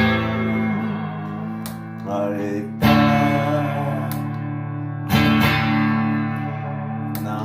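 Guitar music: slow strummed chords, a new chord struck about every two and a half seconds and left to ring.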